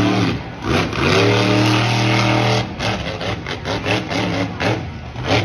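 Monster truck engine revving: the pitch dips, climbs again about a second in and holds high, then drops back after the middle to a choppy, uneven running.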